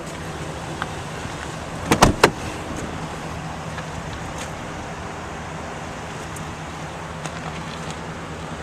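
Chevrolet Silverado 2500HD pickup idling steadily, with a quick cluster of three sharp knocks about two seconds in.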